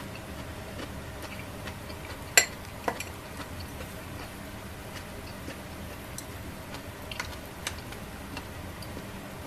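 A few sharp clicks and lighter ticks over a steady low hum, the loudest click about two and a half seconds in, with a couple more near the end.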